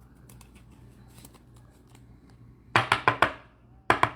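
Trading cards and their packaging being handled: light scattered ticks, then a loud flurry of quick rustling strokes a little under three seconds in and a shorter one near the end.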